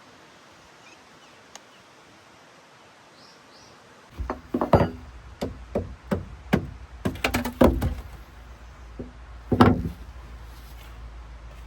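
Quiet hiss, then from about four seconds in an irregular series of about a dozen sharp knocks and thuds of hard objects striking, some much louder than others.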